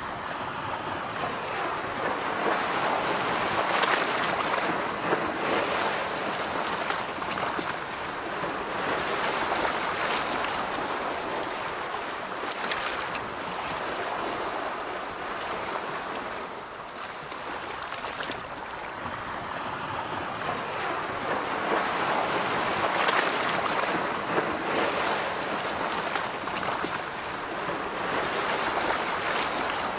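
Ocean surf washing onto a beach, swelling and falling in slow waves every several seconds, with wind.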